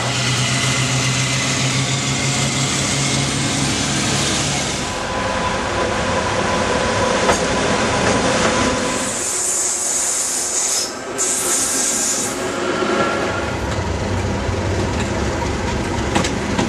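Railway locomotive sounds from several clips cut one after another: a diesel locomotive running with a steady low hum for the first few seconds, then passing trains with wheel and rail noise, and a high hiss for about three seconds in the middle.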